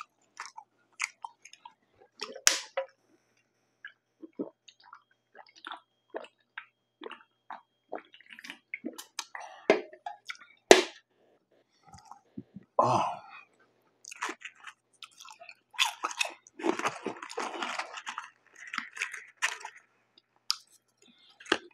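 Close-miked chewing of McDonald's French fries, with irregular mouth clicks through the whole stretch and a few longer, noisier bursts of chewing.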